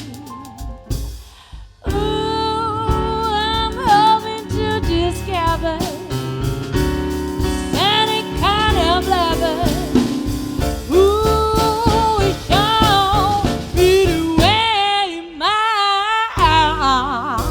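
Live band playing a slow soul-blues ballad: a woman singing long, wavering notes over piano, bass and drum kit. The band drops back briefly about a second in, then comes in fuller.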